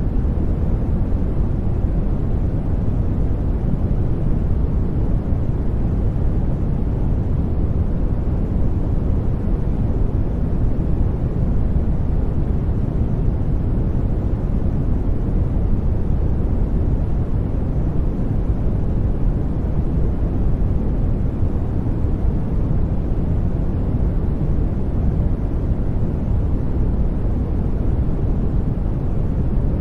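Steady, deep-toned sleep noise (brown-noise-like rumble) that does not change.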